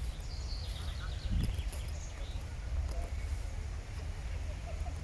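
Outdoor background ambience: a steady low rumble with faint distant voices, and a brief dull thump about a second and a half in.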